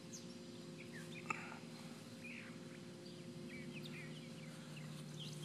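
Small birds chirping on and off over a steady low hum, with one short click about a second in.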